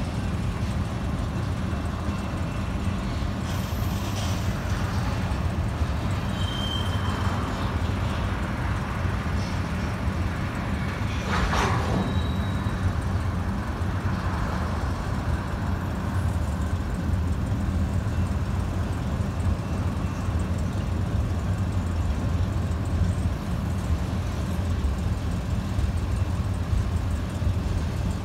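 Freight train rolling past at a grade crossing: a steady low rumble of steel wheels on rail as tank cars and flatcars go by, with one brief sharp noise about twelve seconds in.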